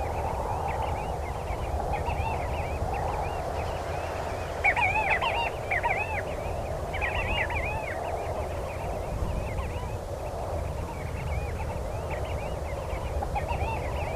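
Birds calling in many short, repeated chirps, with a louder flurry about five seconds in and another about two seconds later, over a steady low rumble.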